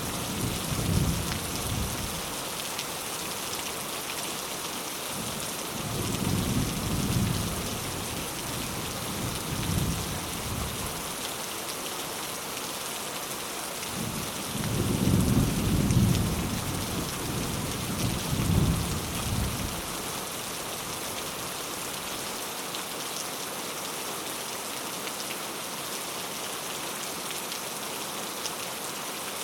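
Steady heavy rain falling, with thunder rumbling in low swells several times, the loudest rumble about halfway through, then rain alone for the last part.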